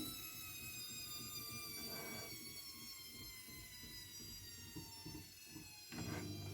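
AEG Lavamat W 1450 washing machine pausing between drum turns: the motor hum stops, leaving faint irregular rustling and a few small knocks from the wet towels in the drum. The motor starts again about six seconds in.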